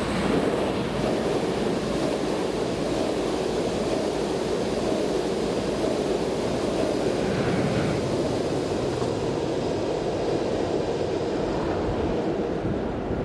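Double-deck electric passenger train passing on the track below, a steady rumble and rush of wheels on rails. It dies away near the end as the last car clears.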